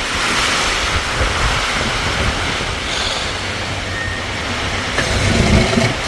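Steady rush of storm wind and rain, with gusts buffeting the microphone in uneven low rumbles. A short pitched sound comes in about five seconds in.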